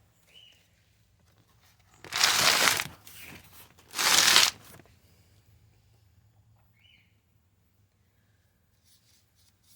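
Two short bursts of loud rustling noise, about two seconds apart, like something being torn or crumpled.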